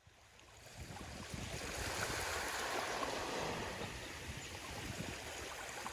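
Sea waves washing onto a beach, a steady rushing that fades in just after the start, swells in the middle and eases again.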